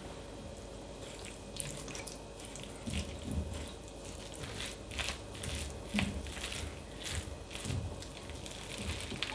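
Close-miked chewing of a mouthful of bibimbap: wet mouth sounds with small crisp crunches, irregular and coming several times a second, stronger from about three seconds in.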